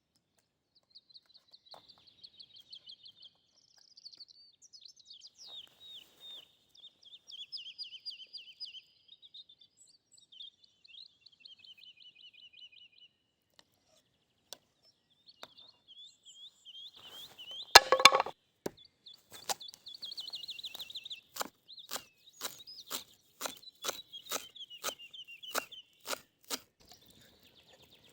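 Songbirds singing in the forest, trilling and warbling calls one after another. About halfway through, a loud sharp knock starts a steady series of knocks, roughly two a second, that goes on until near the end.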